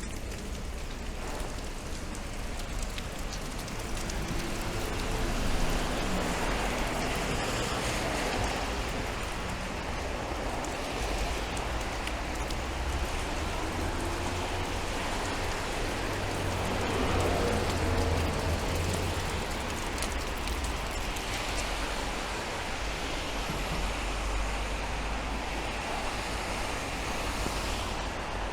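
Steady rain falling on the street, with the swish of traffic passing on the wet road that swells twice, about a fifth of the way in and again a little past the middle.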